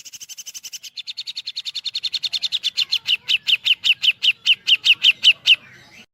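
Cucak jenggot (grey-cheeked bulbul) giving a long woodpecker-like run of short downslurred whistled notes. The run starts fast at about eight to ten notes a second, then slows to about three or four a second as it grows louder, and breaks off shortly before the end.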